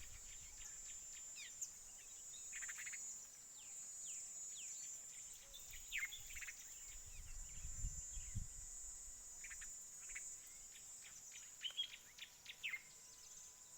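Tawny-flanked prinia calling in short, sharp, falling notes, in two spells separated by a pause. A steady, high insect drone runs underneath. A brief low rumble comes about halfway through.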